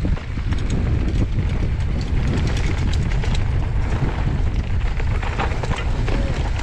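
Steady wind buffeting on a GoPro microphone during a fast mountain-bike downhill run, with the tyres rumbling over the trail and scattered clicks and rattles from the bike.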